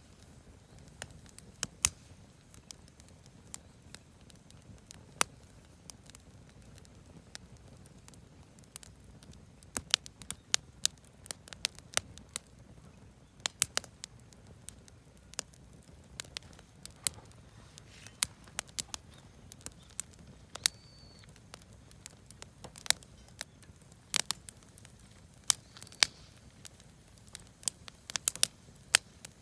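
Campfire of scrap lumber and firewood crackling, with irregular sharp pops and snaps, some in quick clusters, over a faint low rush.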